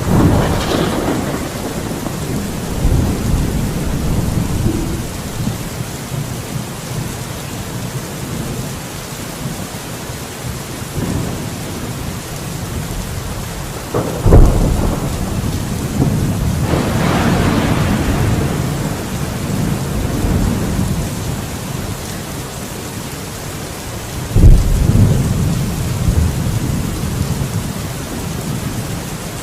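Thunderstorm: steady heavy rain hiss with thunder, a sharp crack and rumble about 14 seconds in and another about 24 seconds in, and a rolling rumble near the start.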